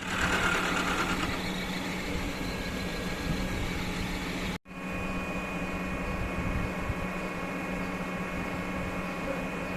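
Steady hum of running workshop machinery, cut off abruptly about halfway through and resuming straight away with a faint high steady whine added.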